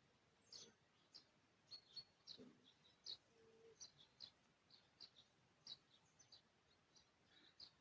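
Faint, irregular short high chirps of small birds, a few each second, with one brief low note about three seconds in.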